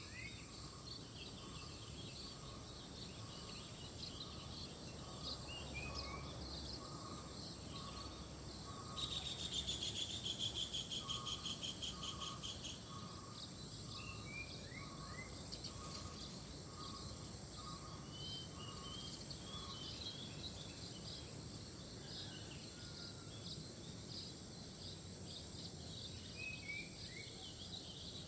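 Outdoor ambience of insects and birds. A steady high insect drone runs under a pulsing call about twice a second, with scattered short falling bird chirps. A loud rapid rattling trill comes about nine seconds in and lasts some four seconds.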